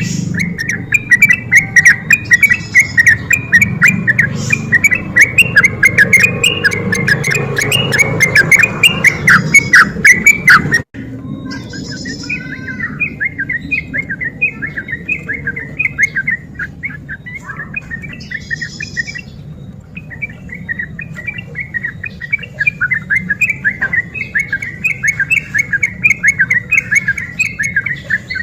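Yellow-vented bulbul (trucuk) song: a fast, continuous chattering run of notes. About eleven seconds in, the recording cuts off abruptly and the song resumes a little quieter.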